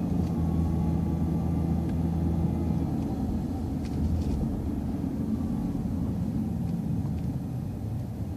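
City transit bus engine running with road rumble as the bus drives off. A steady low engine hum for the first few seconds gives way to a rougher rumble that slowly fades.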